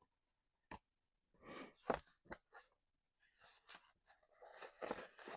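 Paper being handled: brief intermittent rustling with a few sharp clicks, the loudest about two seconds in, then a longer stretch of faint rustling.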